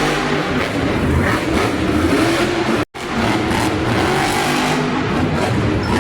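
Monster truck engines revving hard in an arena, the pitch climbing and falling with the throttle. The sound cuts out for an instant just before three seconds in.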